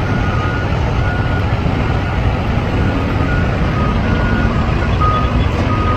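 Dump truck engine running steadily, with a reversing alarm giving short beeps at two slightly different pitches, spaced unevenly.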